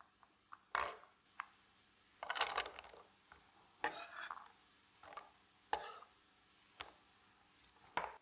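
Kitchen utensils and dishes clattering: a string of separate knocks and clinks, with two longer scraping spells about two and four seconds in.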